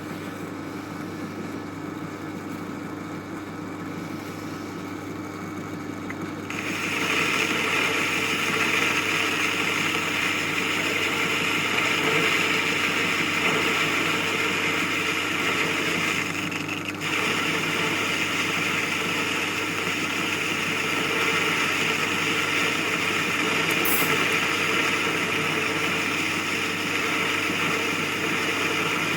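An old metal lathe runs with a steady motor hum. About six and a half seconds in, a louder hissing noise sets in and carries on, with a short break near seventeen seconds.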